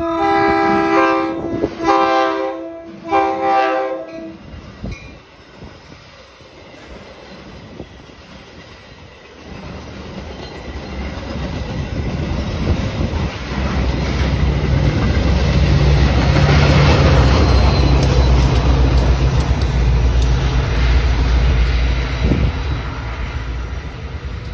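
A Metra commuter train's horn sounds three loud chord blasts. A few seconds later the train of bilevel cars rushes past: a rising rumble with wheels clattering on the rails and a diesel locomotive's low, steady engine drone. It is loudest about two-thirds through and eases off near the end.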